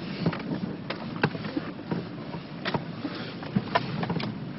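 A 4x4's engine running at low revs, a steady low rumble, with several sharp clicks and knocks scattered through it.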